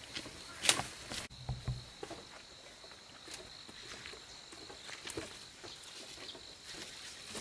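Steady high-pitched insect drone with scattered light clicks and taps, the sharpest click about two-thirds of a second in and a brief low thud just after a second.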